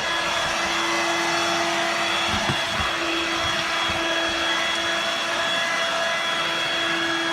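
Dirt Devil Vibe corded stick vacuum running steadily in floor mode with its rotary brush engaged: a constant motor hum over the rush of suction air.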